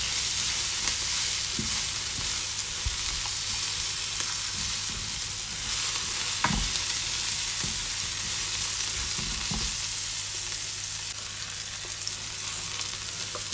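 Sliced onions and mushrooms sizzling in ghee in a non-stick frying pan, with scattered soft knocks and scrapes as silicone-tipped tongs toss them, one sharper click about six and a half seconds in. The tongs fall quiet near the end while the sizzle goes on.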